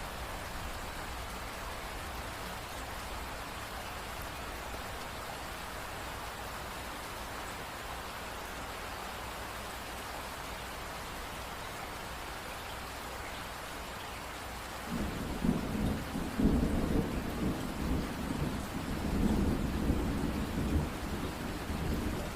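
Steady rain falling as an even hiss. About two-thirds of the way through, a deep rolling rumble of thunder starts suddenly and carries on, swelling and easing, louder than the rain.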